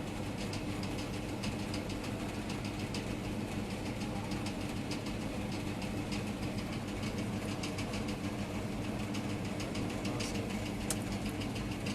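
A steady low mechanical hum, with several fixed pitches that do not change, under many light irregular ticks of rain drops.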